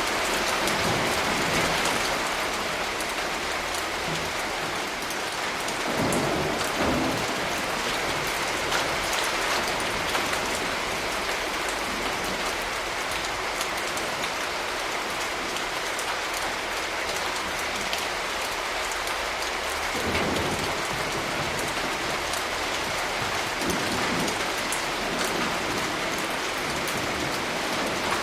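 Steady rain, a dense hiss of falling drops, with short low rumbles of thunder about six seconds in and again around twenty seconds in.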